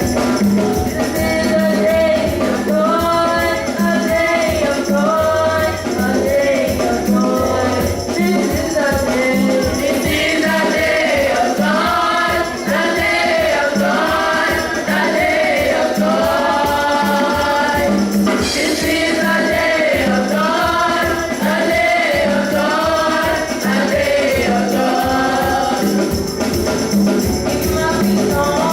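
Choir singing a gospel song, with tambourine and shakers over a steady drum beat.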